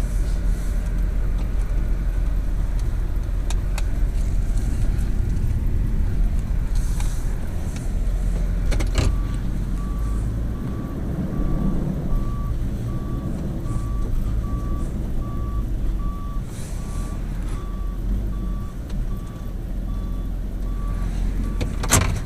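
Tow truck engine running with a steady low rumble, and from about nine seconds in a backup alarm beeping at one pitch about twice a second as the truck reverses, stopping shortly before the end. A sharp knock comes as the beeping starts and another near the end.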